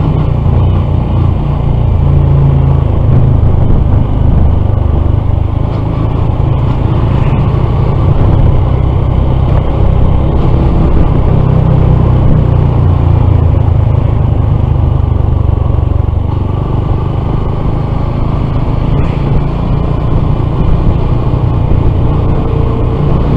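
Honda CT125 motorcycle with a 142 cc big bore kit running steadily while being ridden along a road, with heavy low rumble from the engine and the wind of riding.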